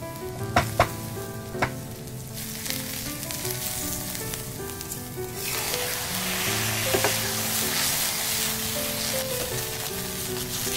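Chopped shallots and ginger sizzling in hot oil in a pan, then jasmine rice frying as it is stirred with a silicone spatula; the sizzle grows louder from about halfway through. A few sharp taps near the start, with background music of held notes throughout.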